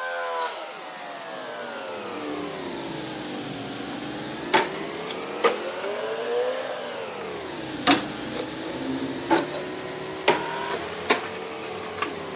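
A machine's motor running, its hum slowly falling and rising in pitch, with about seven sharp clicks or knocks in the second half.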